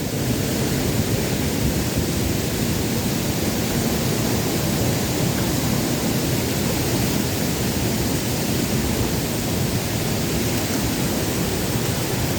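Steady rushing of a waterfall, an even noise that holds at the same level throughout.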